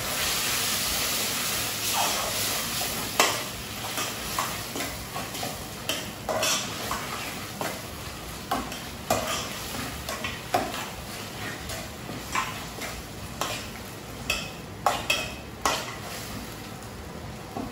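Food sizzling in a cooking pan while a spoon stirs it, knocking and scraping against the pan at irregular intervals. The sizzle is loudest in the first few seconds.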